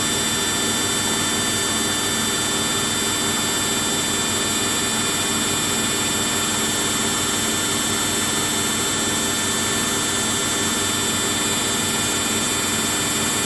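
Samsung front-load washing machine in the spin stage of its rinse-and-spin cycle, its drum turning at high speed with a steady whine and hum that holds unchanged.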